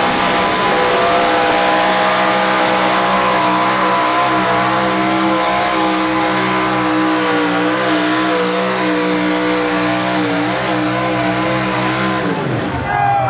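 Modified-class pulling tractor's engine running at full throttle under heavy load, its pitch wavering slightly. About twelve seconds in the throttle is cut and the pitch falls away quickly, the sign that the pull has ended.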